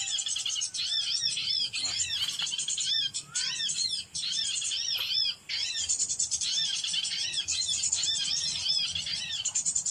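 Small songbirds chirping: a rapid, steady stream of short, high, arched notes, with a few brief breaks near the middle.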